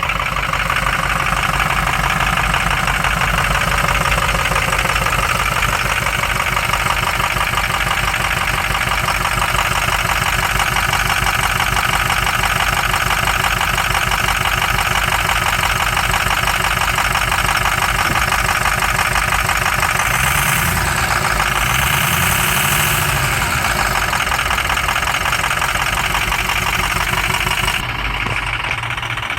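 2005 Ford F-450's 6.0-litre Power Stroke turbo diesel V8 idling with an even, rapid clatter, the sound shifting briefly with a rise and fall in pitch about twenty seconds in.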